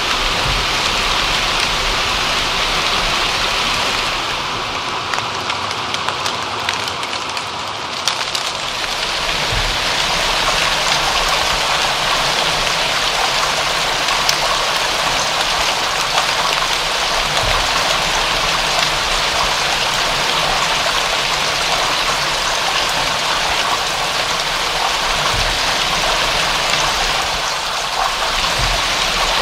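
Steady rain, a dense even hiss with scattered drops ticking, easing slightly for a few seconds about four seconds in.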